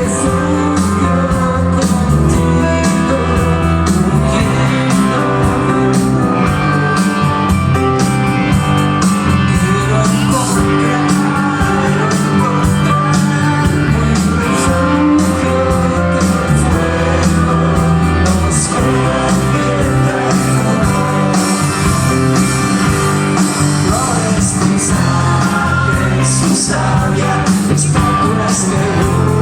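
Rock band playing live: guitars and drums with a singer, at a steady beat.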